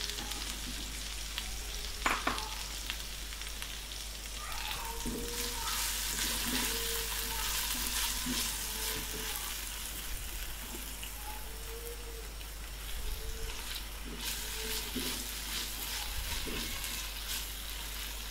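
Chopped carrots and green bell pepper sizzling in hot oil in a non-stick wok, with the spatula scraping and clicking against the pan as they are stirred.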